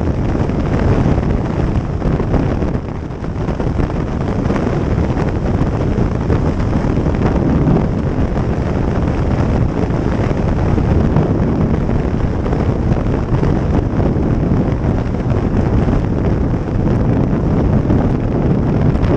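Heavy wind rush buffeting the microphone of a moving motorcycle at speed, a steady low rumble of wind and road noise.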